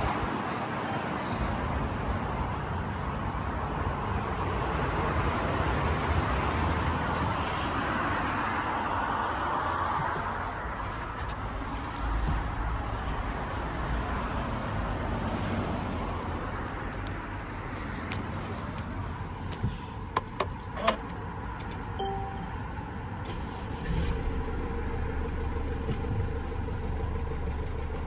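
Mercedes Sprinter diesel van engine idling steadily, with a few sharp clicks about two-thirds of the way through and the low hum getting a little stronger near the end.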